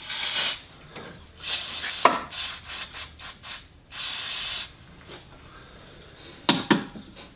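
Aerosol brake and parts cleaner sprayed in a series of hissing bursts, some long and some short, to clean a car's speedometer drive. A few sharp clicks follow near the end.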